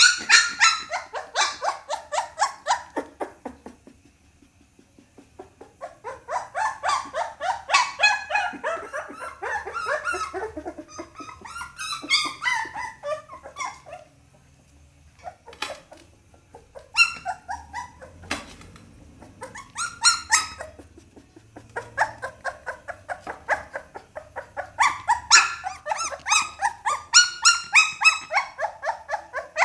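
Pit bull puppy whining and yelping in quick runs of short, high-pitched cries, with brief pauses of a few seconds between runs.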